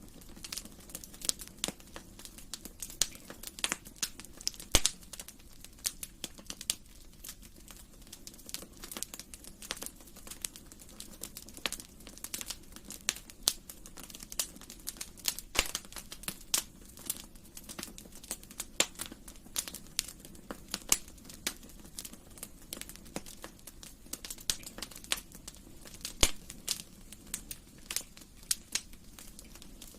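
Wood fire crackling in a fireplace: irregular sharp pops and snaps several times a second over a low, steady rush of flame.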